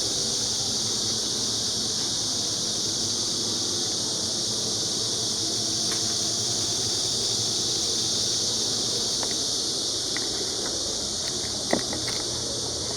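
A steady, high-pitched buzzing hiss that holds an even level throughout, with a few faint clicks and a single light knock near the end.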